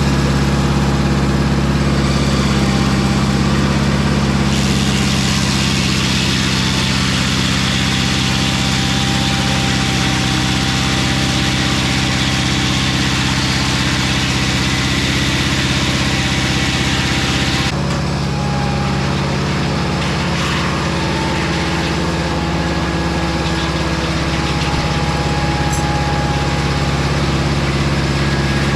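Engine of a Mobile Dimension circular-blade sawmill running steadily under load. From about four seconds in, a hissing rush of the blade cutting spruce joins the engine note, then stops suddenly a little past the middle, leaving the engine running on.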